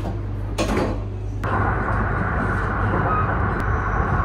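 Running noise of a Yamagata Shinkansen Tsubasa train heard from inside: a steady low hum, with a short knock early. About a second and a half in, an even, louder rushing noise sets in and holds.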